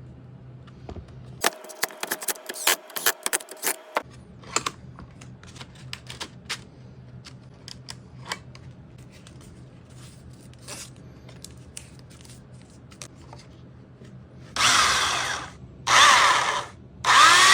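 Makita belt sander motor starting and cutting out in three short bursts of about a second each, running intermittently, which the repairer suspects may come from a damaged wire in the new cord. Earlier, a stretch of sharp clicks and small handling clicks.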